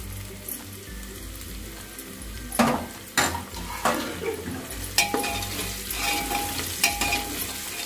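Chopped onions and green chillies sizzling in hot oil in an aluminium pressure cooker, with a steel perforated ladle knocking and scraping against the pot several times as it stirs.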